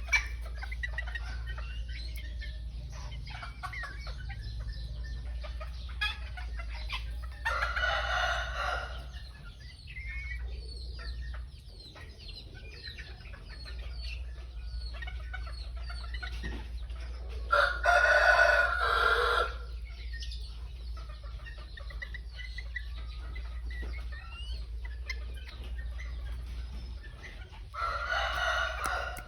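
Roosters crowing three times, about ten seconds apart, each crow lasting a second and a half to two seconds, over steady clucking and chirping from the flock. A low steady hum runs underneath.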